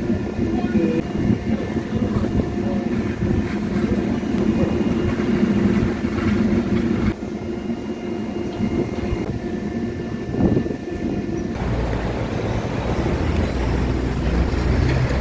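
Steady running rumble and hum of a moving vehicle heard from inside, likely a train. The sound changes abruptly about seven seconds in and again near twelve seconds, where a deeper low rumble takes over.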